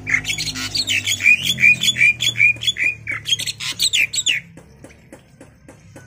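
A pet bird squawking: a rapid run of short, harsh calls, about four a second, that stops abruptly a little over four seconds in.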